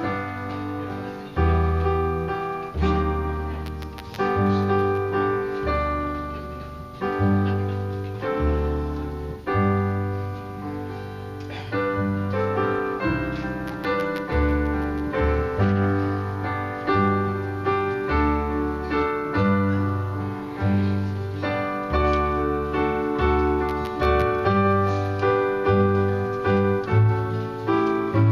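Solo piano playing, with chords struck over low bass notes every second or two, each note fading after its attack.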